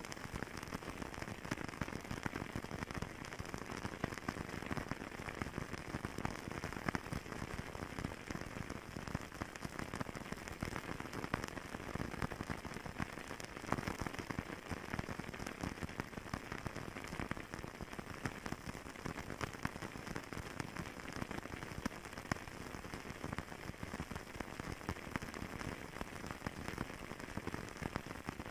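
Wood fire crackling in a fireplace: a steady, dense patter of small pops and snaps.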